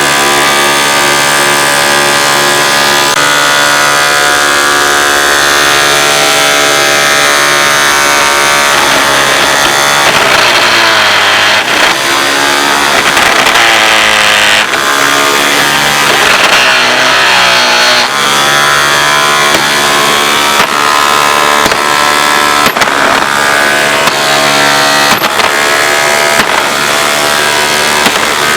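Hoover Dimension Supreme upright vacuum cleaner running loud, its motor's whine steady, then dipping and wavering in pitch for several seconds in the middle before settling again.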